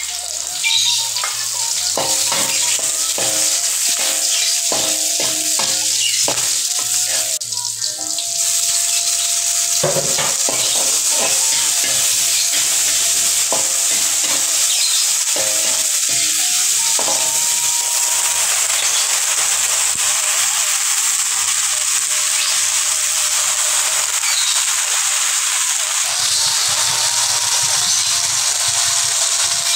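Chopped shallots, garlic and chillies sizzling in hot oil in a wok, stirred now and then with a metal spatula, with sliced tomato frying in it later on.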